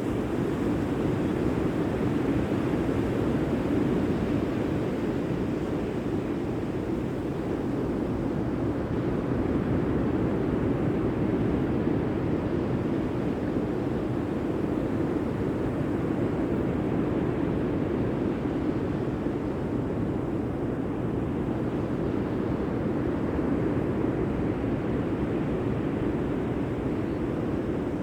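Steady rush of sea surf, swelling and easing gently every several seconds.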